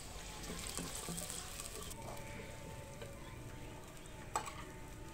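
Onions with garlic and ginger frying in oil in a clay pot, stirred and scraped with a wooden spatula. The crackling sizzle is strongest for the first two seconds, then quieter, with one sharp knock near the end.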